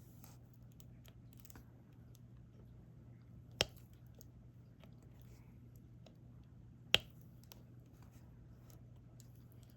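Diamond painting: soft ticks of resin drills being picked up and pressed onto the adhesive canvas with a drill pen, with two sharp clicks about three and a half and seven seconds in, over a low steady hum.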